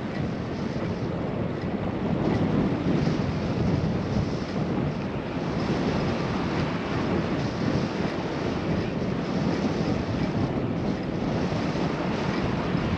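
Steady wind rushing over a GoPro's microphone while riding a bicycle, an even low rumble with no distinct events.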